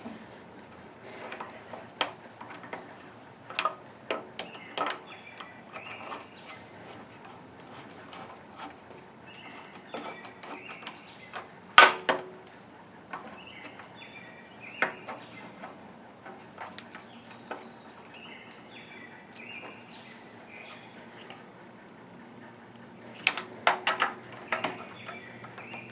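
Scattered clicks and knocks of hand work on a Gravely tractor being reassembled, with one louder knock about halfway and a quick cluster near the end. Birds chirp now and then in the background.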